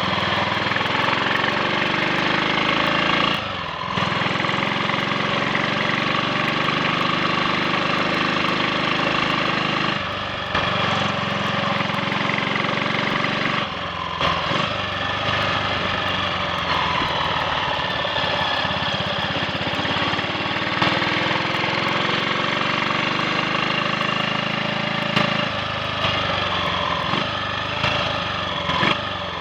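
Triumph Sports Cub's single-cylinder four-stroke engine running on the road, with brief dips a few times, about 4, 10 and 14 seconds in. It runs without the misfiring and cutting out that fine rust from the fuel tank around the main jet had caused.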